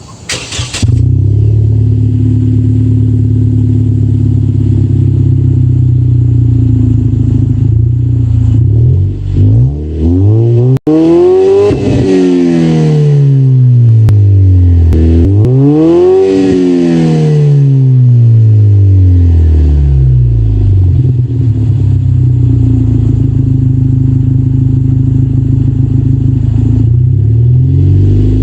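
Muffler-deleted exhaust (resonators still fitted) of a 2018 Lexus IS 300 with the turbocharged 2.0-litre four: the engine fires up about half a second in and settles to a steady idle. It is then revved twice, each rev rising and falling in pitch, before dropping back to idle, with a small blip near the end.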